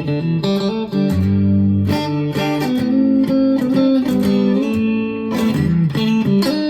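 Squier Affinity Stratocaster electric guitar with single-coil pickups, played through an amp on a clean tone: chords strummed and picked, changing about once a second and ringing on between strokes.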